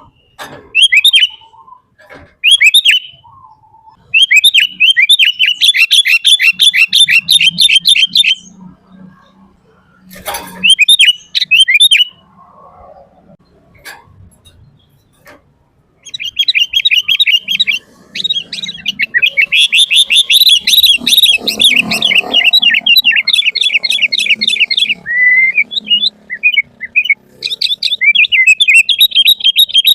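Sooty-headed bulbul (kutilang) singing busily: fast runs of sharp, chattering chirps in bursts of a few seconds, broken by short pauses.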